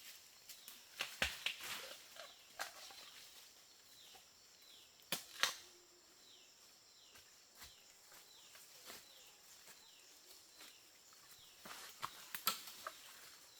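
Quiet outdoor ambience: short falling chirps repeating throughout, over a faint steady high hum, with a few sharp knocks or clicks about a second in, around five seconds in, and near the end.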